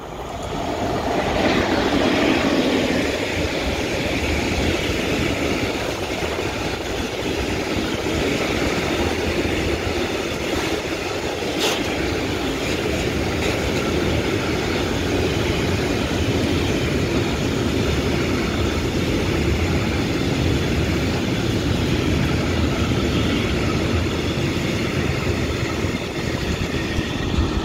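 A freight train hauled by an EU07 electric locomotive runs past close by. It gets loud suddenly at the start, loudest about two seconds in, then a long steady rumble and clatter of its open wagons' wheels on the rails. There is a single sharp clank about twelve seconds in.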